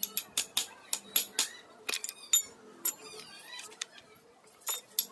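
Irregular sharp clicks and clinks, a few a second, like a hand tool knocking and working against a pipe fitting.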